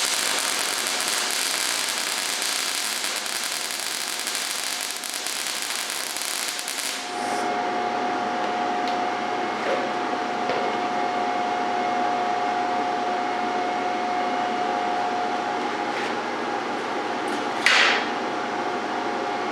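MIG welding arc crackling steadily as a bead is run with the gun pushed, using argon-CO2 shielding gas; the arc stops about seven seconds in. A steady hum with a single held tone follows, with a brief loud burst of noise near the end.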